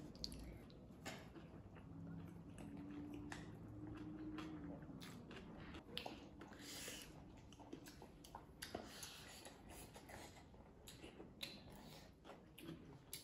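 Quiet chewing and eating mouth sounds, with scattered small clicks.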